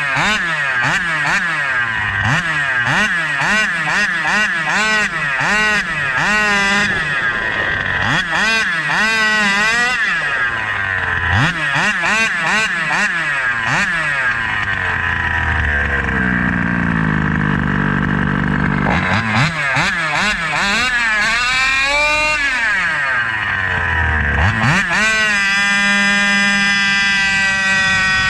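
A 29cc reed-valve two-stroke engine with an SCZ E290 CNC crankcase, revved up and down over and over. About midway it falls to a low, slow speed. Near the end it holds a long, high-revving pull.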